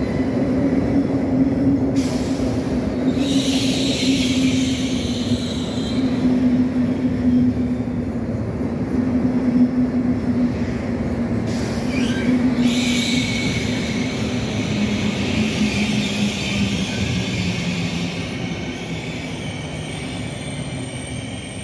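Pendolino (ETR610-family) electric train rolling along the platform of an underground station and pulling away, with a steady low hum and two bouts of high squeal. The sound fades near the end as the train draws away.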